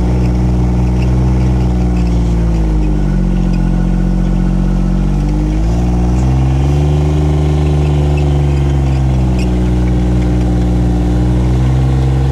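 Engine of a John Deere Gator utility vehicle running as it drives. Its pitch drops about two seconds in, climbs again around six seconds, and drops and climbs once more near the end as the engine speed changes.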